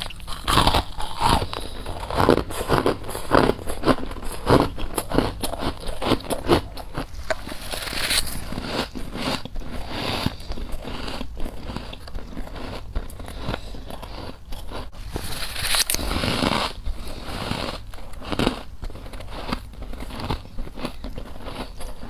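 A person biting and chewing frost up close, a rapid run of crisp crunches, densest in the first several seconds and continuing as the frost is chewed.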